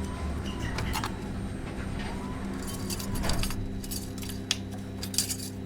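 Light clinks and rattles of small parts being handled in a car's engine bay, in a few short clusters over a steady low hum.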